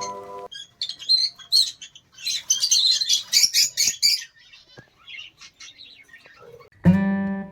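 Small pet birds chirping and twittering in a flock, most densely between about two and four seconds in, then thinning out. Strummed guitar music cuts in near the end.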